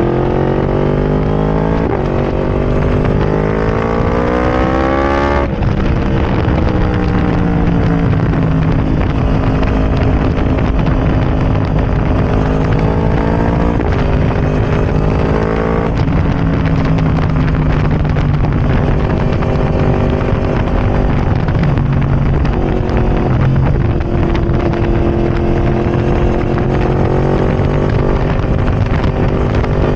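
Yamaha R1's crossplane inline-four running loud through a decatted Arrow Racing exhaust, pulling up through the revs. The pitch drops sharply about five seconds in and again about halfway through, like upshifts, then climbs again near the end.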